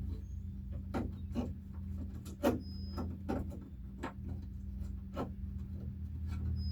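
Scattered light clicks and knocks of hand tools and metal parts being worked inside a Jeep Wrangler door latch, about a dozen over the few seconds, over a steady low hum.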